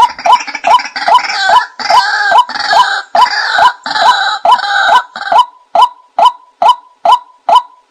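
Watercock calling, as used to lure birds to a decoy: a steady run of short notes about two and a half a second, each rising at the end. For the first five seconds a harsher, rasping layer sounds over them, then drops away and leaves the plain repeated notes.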